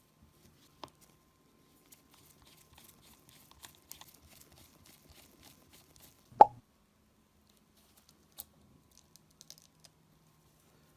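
Small clicks and light rustling of a Nintendo Switch's parts and tools being handled, with one sharp knock about six seconds in, then a few scattered clicks.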